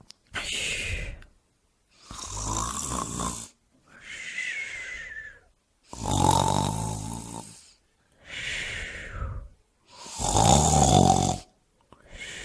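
A sleeping person snoring in a steady rhythm. Deep, rattling snores come about every four seconds, each lasting around a second and a half. Between them are softer, higher breaths with a faint whistle.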